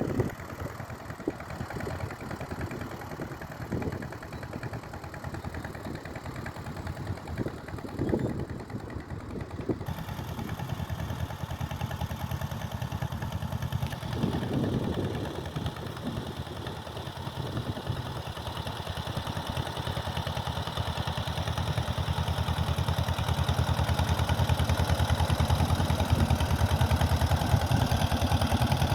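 1949 John Deere M tractor's two-cylinder engine running at idle with an even beat, growing louder over the second half.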